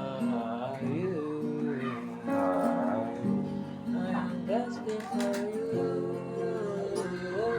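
Slow worship music led by guitar, with held chords and a sliding, bending melody line.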